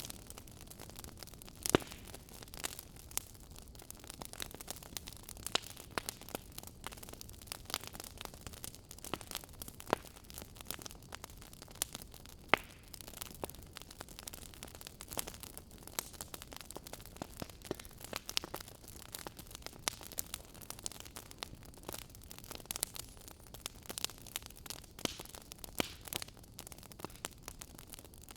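Soft fire crackling: irregular small pops and snaps over a faint hiss, with a few sharper pops standing out, one about two seconds in and another near the middle.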